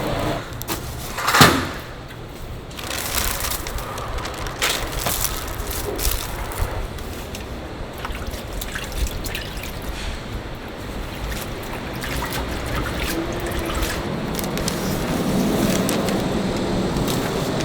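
Liquid pouring and splashing, with scattered clicks and clatter and one loud, short knock about a second and a half in.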